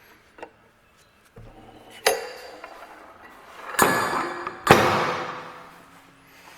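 Metal knocks and clanks, then a loud bang about two-thirds through that rings out and fades over a second or so: hard metal parts of a mini excavator being handled and shut.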